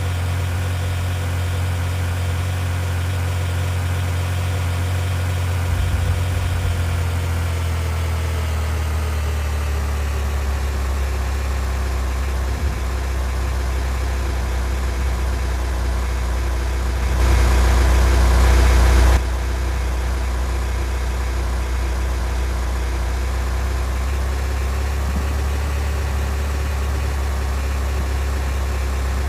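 Car engine running steadily, its pitch dropping a little about ten seconds in. A louder rush of noise cuts in for about two seconds past the middle.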